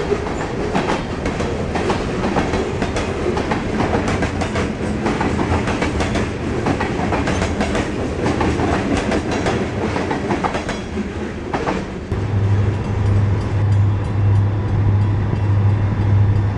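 Loaded freight cars rolling past close by, their wheels clattering and knocking over the rail joints. About twelve seconds in this gives way to a steady low drone from a diesel locomotive approaching in the distance.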